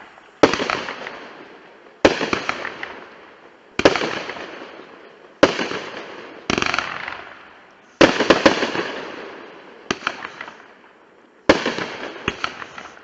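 Consumer 500-gram fireworks cake firing shot after shot: about ten sharp bangs one to two seconds apart, each followed by a fading crackle.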